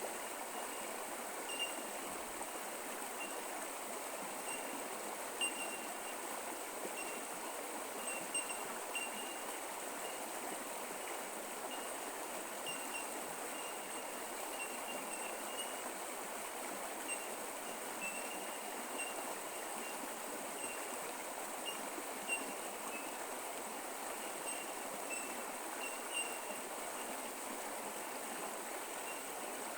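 Creek water running steadily, an even rushing and trickling. Short high-pitched notes recur every second or so above it.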